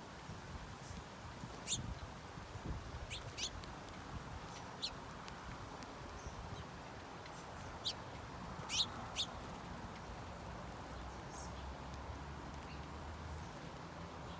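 Birds chirping: scattered short, high chirps over a steady low background hum, with three louder ones close together about eight to nine seconds in.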